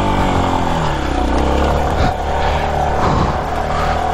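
Yamaha Serow 250's single-cylinder engine revving. Its pitch falls back over the first second or so, then it holds at fairly steady high revs with small wavers, while the rear tyre spins without grip on a slippery dirt climb.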